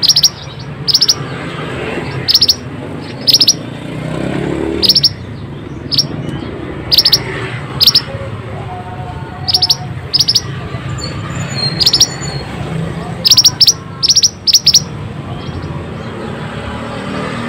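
A mantenan songbird calling: short, sharp, high chirps, often doubled or tripled, repeated at irregular intervals over a steady low background noise. This is a lure recording of the kind played to get quiet caged mantenan birds singing.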